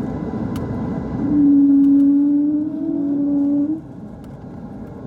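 Airbus A220-300 cabin noise, with a steady droning tone that comes in about a second in, holds for some two and a half seconds, rises slightly and stops abruptly, after which the cabin noise drops noticeably.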